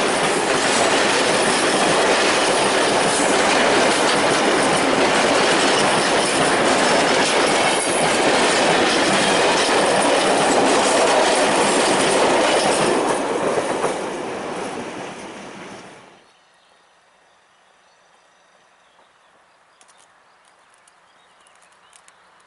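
Long train of open freight wagons rolling past loudly on the track, then fading away and cutting off about sixteen seconds in, leaving a faint outdoor background with a few small ticks.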